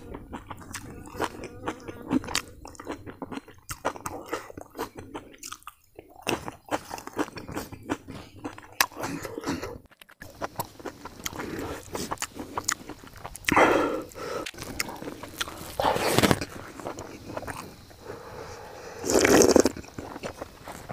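A person chewing a mouthful of mutton curry and rice, picked up close by a clip-on microphone: soft wet chewing with many small mouth clicks. There are three louder rushes of noise in the second half.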